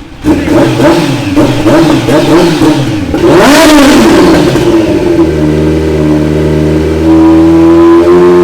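Kawasaki superbike's engine revved through a newly fitted aftermarket exhaust. The throttle is blipped quickly for about three seconds, then one higher rev rises and falls, then the engine holds a steady pitch that steps up slightly near the end.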